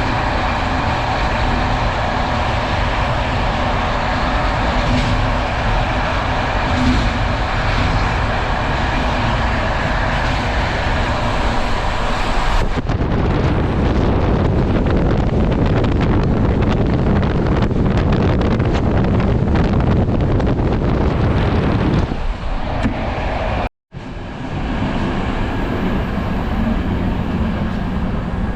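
Passenger train running on the line, a steady rushing rumble of wheels on rails and moving air. About halfway through the sound turns abruptly deeper and less hissy, and near the end it cuts out for a moment before the running noise resumes.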